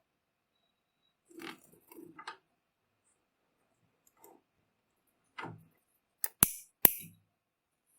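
Handling noises from working on a screwdriver and its parts: a few soft scrapes and knocks, then two sharp clicks about half a second apart near the end, the loudest sounds here.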